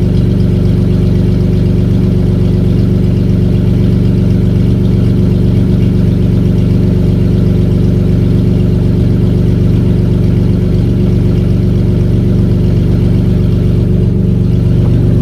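Vauxhall Vectra GSi engine idling steadily, freshly rebuilt and warming up after its first start.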